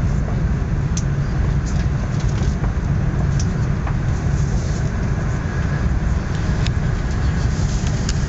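Steady low rumble of a CRH380A high-speed train heard inside the passenger cabin while it runs, with a few faint ticks scattered through it.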